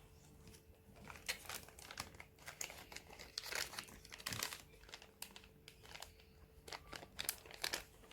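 Packaging crinkling and rustling in short irregular bursts as parts are unwrapped and handled, easing off briefly about five seconds in.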